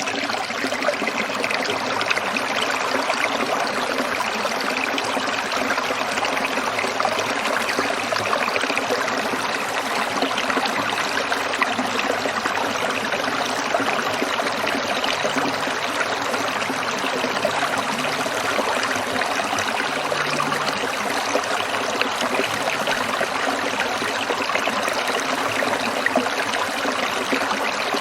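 Water trickling in a small stream: a steady, even rush with no breaks.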